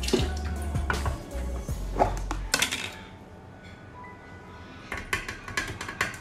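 Dishes and cutlery clattering and clinking in short bursts, over soft background music. A steady low hum stops about halfway through.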